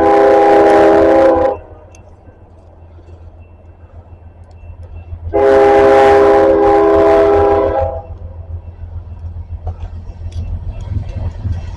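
Locomotive air horn sounding a chord of several notes: a long blast that ends about a second and a half in, and a second blast of about two and a half seconds starting near five seconds in. A steady low rumble of the passing train runs underneath.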